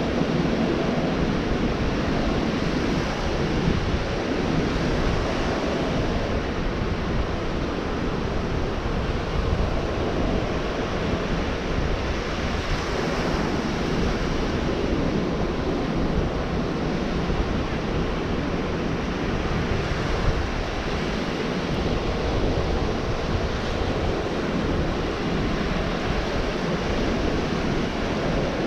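Surf breaking and washing onto a beach in a steady wash of noise that swells gently now and then, with wind buffeting the microphone.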